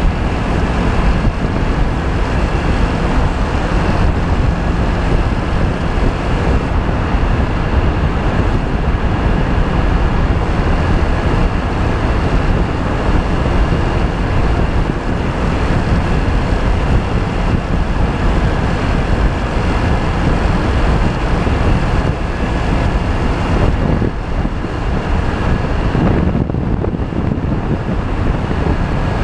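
Steady ride noise from a Honda PCX 125 scooter on the move: wind rushing over the microphone over a constant drone of engine and road noise.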